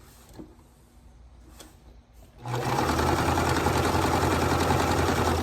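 Electric sewing machine running at a steady speed, stitching a seam across fabric: it starts about halfway in and stops near the end.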